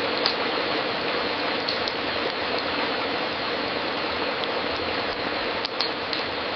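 Wood fire in a fireplace burning with a steady hiss, broken by a few sharp crackles and pops, two pairs of them in quick succession.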